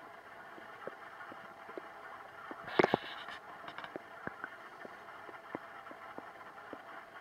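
Human stomach gurgling: scattered short bubbling pops, with a louder burst of gurgles about three seconds in, over a steady background hiss.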